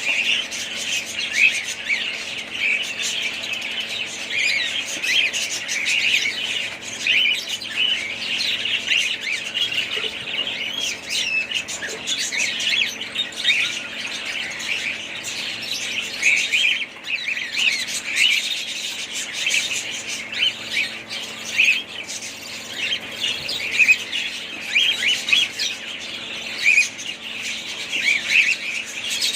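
A flock of budgerigars chattering continuously, with many overlapping chirps and squawks.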